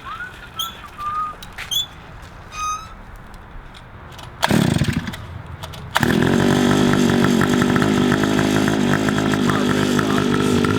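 Small engine catching about four seconds in, with a short burst that falls away, then starting and running steadily with a buzzy, chainsaw-like note. A few short high chirps come before it.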